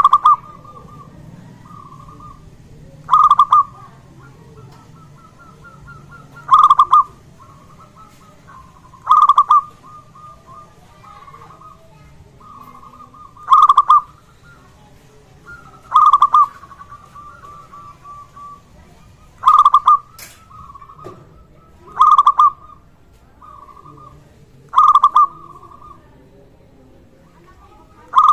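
Zebra dove (perkutut) singing: a loud cooing phrase repeated about every three seconds, with softer rolling trills at the same pitch between the phrases.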